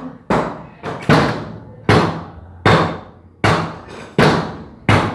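Repeated hammer blows, about one every three-quarters of a second, each with a short ringing decay.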